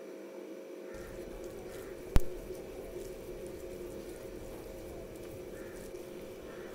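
Thick, coarsely ground moong dal pakora batter being mixed in a bowl, giving faint wet squishing and light ticks over a steady background hum. One sharp knock sounds a little over two seconds in.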